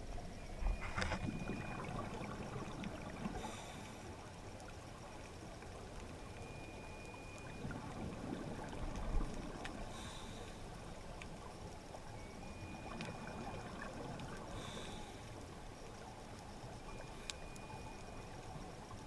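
Underwater sound on a scuba drift dive: a steady rush of water, with bursts of bubble hiss about every five to six seconds, typical of a diver's regulator exhaling.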